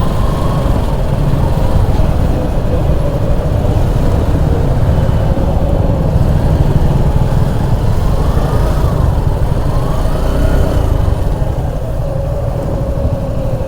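Wind buffeting the microphone of a moving Suzuki motorcycle, with the engine note running underneath and its pitch rising and falling twice past the middle.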